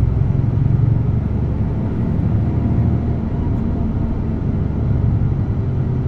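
DAF truck's diesel engine and road noise while driving: a steady low rumble.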